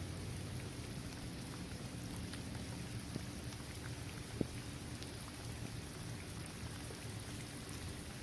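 Steady rain falling on a basketball court, trees and grass, an even hiss with single drops ticking now and then. One sharper tick comes just past halfway.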